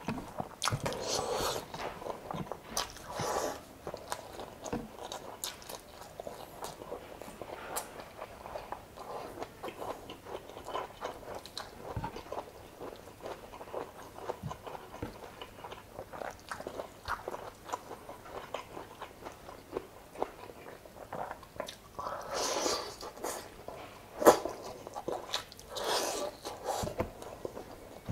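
Close-miked chewing and biting of chicken adobo in coconut milk with rice: an irregular run of wet mouth clicks and smacks, with one sharper, louder click about three quarters of the way through.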